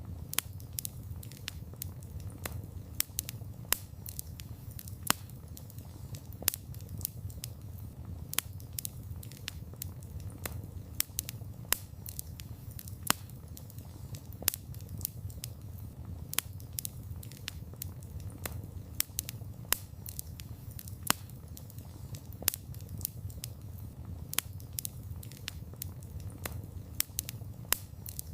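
Wood campfire burning, with irregular sharp crackles and pops several times a second over a low steady rumble of flame.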